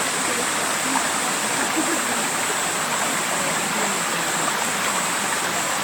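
Steady rush of running water, like a stream over rocks, with a thin steady high hiss above it.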